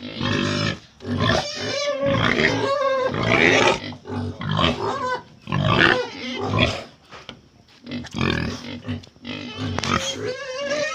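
Wild boar squealing and grunting in a rapid series of loud, wavering calls with short gaps between: the sound of boars ready to mate, used as a lure to call wild boar in.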